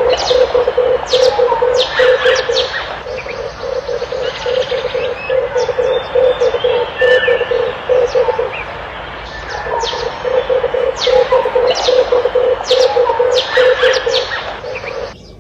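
Red collared doves cooing in long runs of fast, pulsing low coos, with a short pause midway. Other small birds chirp with quick, sharp notes over them throughout.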